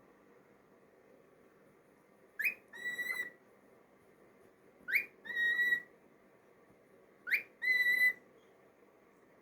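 Cockatiel whistling: three calls, each a quick rising note followed by a held note, about two and a half seconds apart.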